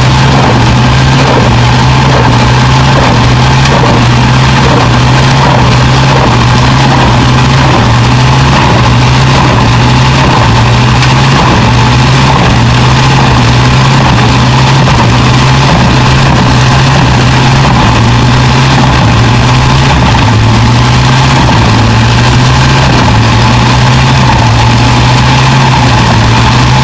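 A machine's engine running steadily, with a constant low drone that barely changes.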